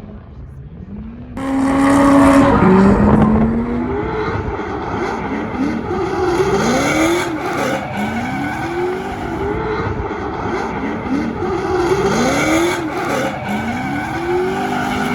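Drift car engine revving hard in repeated rising surges, about one every second and a half, over a hiss of tyre noise. It comes in suddenly about a second and a half in.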